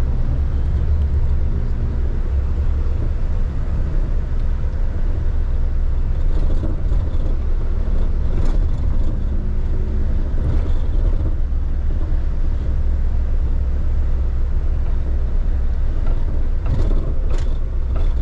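Truck engine and road noise heard from inside the cab while driving: a steady low rumble, with a few faint brief clicks or knocks.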